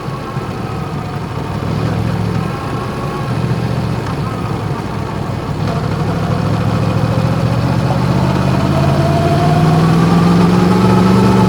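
Yamaha MT-10's crossplane inline-four running through an Akrapovic exhaust at a steady, moderate engine speed while riding. Engine pitch and loudness climb gradually over the last few seconds as the bike picks up speed.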